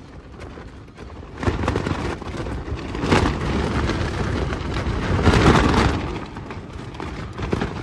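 Strong wind gusts battering a small tent, heard from inside as a heavy rushing and flapping of the fabric, with deep buffeting on the microphone. The wind builds about a second and a half in and surges twice, near three and near five and a half seconds.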